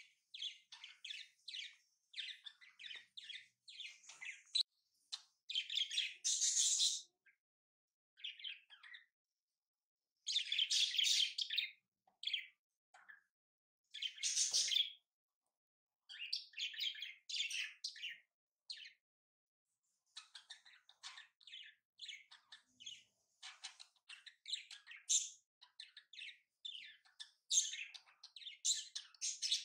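Small birds chirping: rapid runs of short, high twittering notes that come in spells with brief silent gaps.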